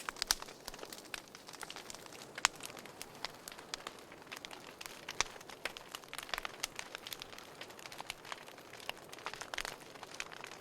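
Wood fire in a fireplace crackling, with irregular sharp pops and snaps over a soft hiss; one louder snap about two and a half seconds in.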